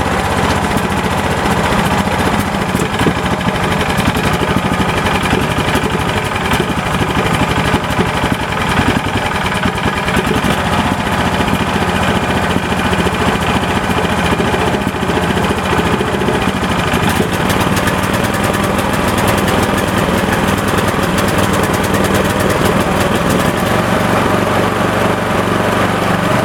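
Honda GX390 single-cylinder air-cooled engine running steadily just after a cold start, with the choke on and the throttle about halfway. Its note shifts slightly near the end.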